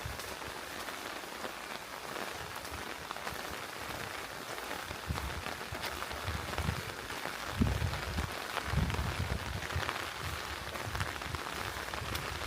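Steady rain falling, an even hiss full of fine drop ticks, with irregular low thuds from about halfway through.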